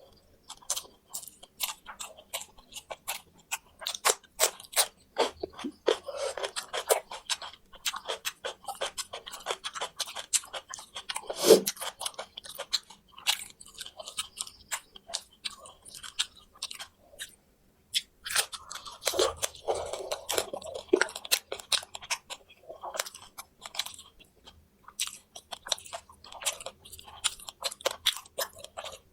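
Close-up chewing and crunching of crispy fried quail, with bones cracking between the teeth in quick, irregular crunches and one loud crack about eleven seconds in.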